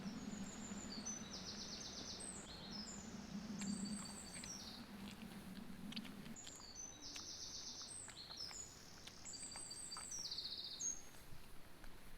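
A songbird singing two phrases of high, quick notes ending in rapid trills, with a pause of a few seconds between them. Under it a low hum runs and stops about halfway through, with a few faint clicks.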